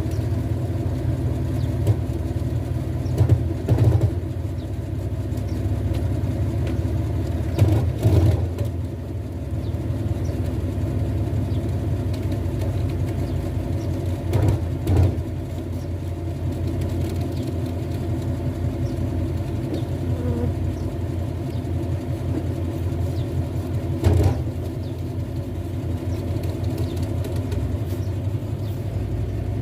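A large truck's diesel engine running steadily at idle, with a handful of brief, louder thumps spread through it.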